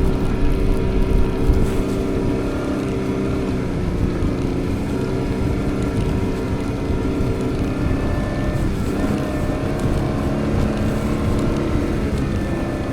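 4x4 vehicle engine running steadily under load while driving through deep snow. Its note shifts slightly about nine seconds in.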